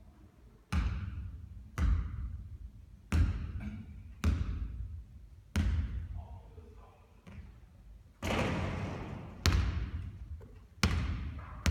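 Basketball bouncing on a court during three-point shooting practice: a string of about eight sharp thuds, one every second or so, each with a short ringing echo.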